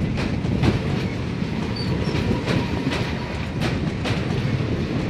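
Passenger express coaches rolling past close by, their wheels clicking over rail joints in a clickety-clack of about two clicks a second over a steady low rumble.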